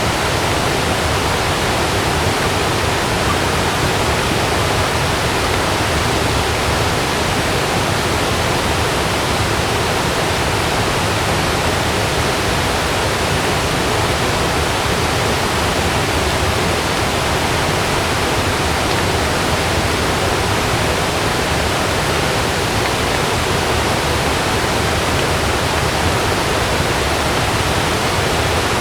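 Heavy rain pouring steadily onto a camping tent, a dense, even hiss.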